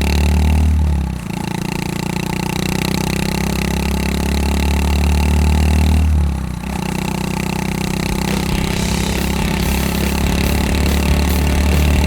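Honda Super Cub 110 (JA59) single-cylinder four-stroke exhaust through an aftermarket Takegawa P-Shooter muffler, running under way. The engine note drops out briefly about a second in and again about six and a half seconds in, then picks up at a new pitch, as between gears.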